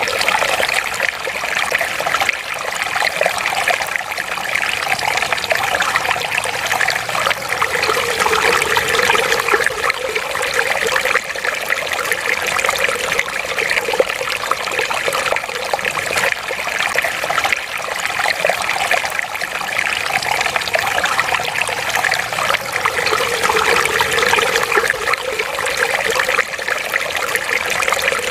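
Water running in a thin, steady stream from a wall fountain spout, trickling and splashing.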